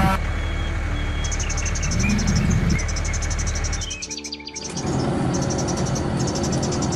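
Insects chirping in a fast, even pulse over a steady low hum; nearly everything drops out for a moment about four seconds in, then both resume.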